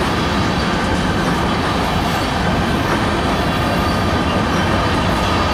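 Freight train of tank cars rolling past close by: a steady, loud noise of steel wheels running on the rails, without breaks.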